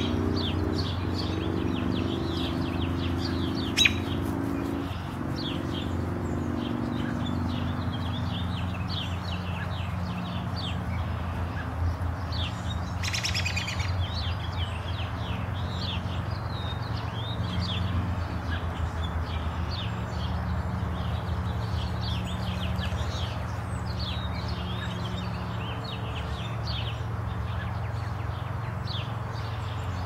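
Many small birds chirping in quick, short calls throughout, over a steady low hum. A single sharp click comes about four seconds in, and a short buzzy trill about thirteen seconds in.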